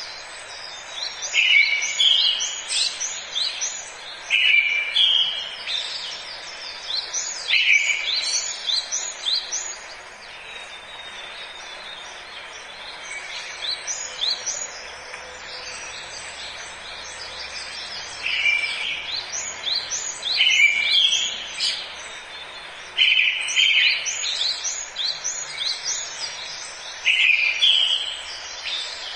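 A songbird singing in a forest soundscape: a short phrase, a buzzy opening note followed by a quick run of falling notes, repeated every two to three seconds, with a pause of several seconds midway. A steady hiss of forest ambience runs beneath.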